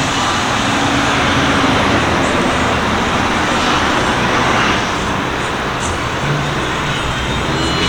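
Steady noise of car engines running and road traffic, with no single event standing out.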